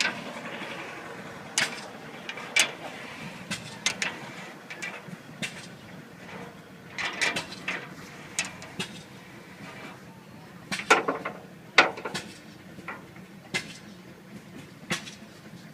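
A metal flue-cleaning brush or rod worked through the fire tubes of a Case steam engine's boiler: irregular scraping strokes and sharp clanks of metal on metal, with a few louder knocks.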